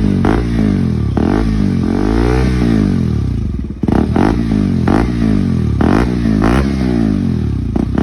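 KTM RC200's single-cylinder engine revved through an Akrapovic aftermarket exhaust, the throttle blipped over and over so the pitch rises and falls about once a second. The sound briefly drops away just under four seconds in.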